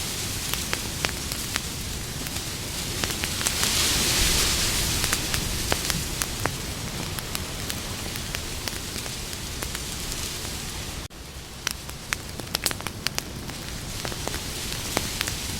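Wood campfire crackling, with frequent sharp pops over a steady hiss. The hiss swells for a second or so about four seconds in, and the sound drops abruptly for a moment about eleven seconds in.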